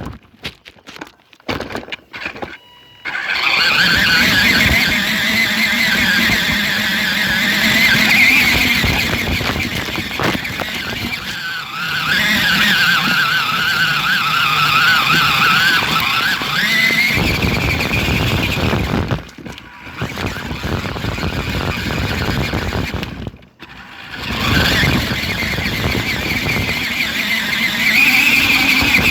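Toy Jeep Wrangler RC car's electric motor and gearbox whining as it drives, the pitch wavering with speed. The whine starts a few seconds in after some faint clicks and cuts out briefly twice near the end.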